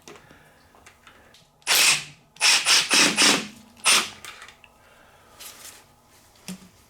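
Several short bursts from a hand-held power tool, about five in two and a half seconds starting nearly two seconds in, then a fainter one.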